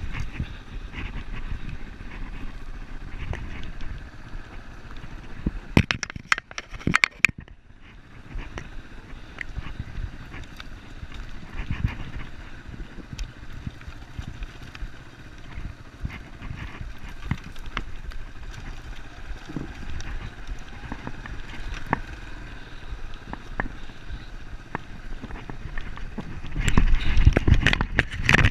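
Yamaha Serow enduro motorcycle's single-cylinder engine running with a steady low rumble while riding, with rattles and knocks from the rough track. A burst of sharp knocks comes about six seconds in, and the engine gets louder near the end.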